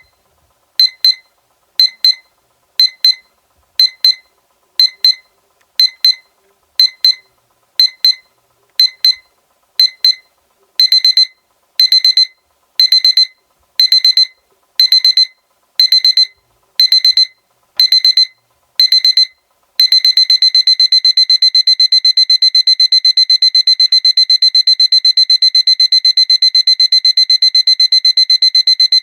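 Seiko electronic alarm clock's alarm sounding: high-pitched beeps about once a second, which grow longer about a third of the way in. About two-thirds of the way in they switch to rapid, continuous beeping as the alarm escalates.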